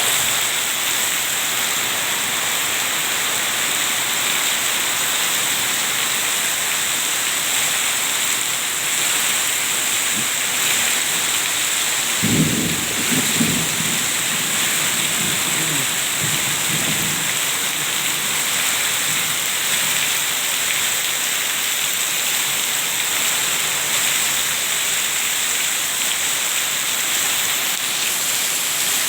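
Heavy rain pouring down as a steady hiss. A low rumble of thunder starts about twelve seconds in and lasts roughly five seconds.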